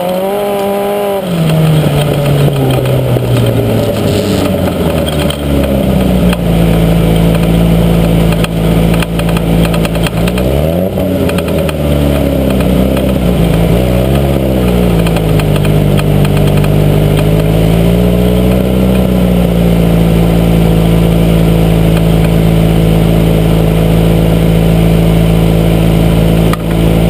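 Toyota 3A-GE twin-cam four-cylinder engine, fitted with HKS cams, coming down from high revs in the first couple of seconds and then running steadily at low revs. Midway it is blipped up and back down a few times.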